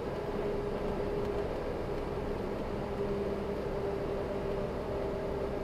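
Iveco 4x4 expedition truck driving at steady speed, heard from inside the cab: even engine and road noise with a constant hum.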